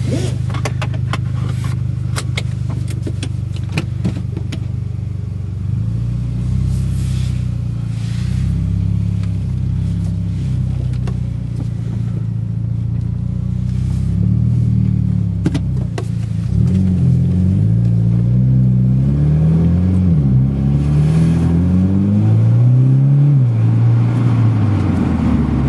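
Mitsubishi Lancer Evolution X MR's turbocharged 2.0-litre four-cylinder engine heard from inside the cabin. It idles steadily, with some clicks and rustles in the first few seconds, then from about six seconds in the car pulls away. The engine note rises and falls through several gear changes, and it is under boost near the end.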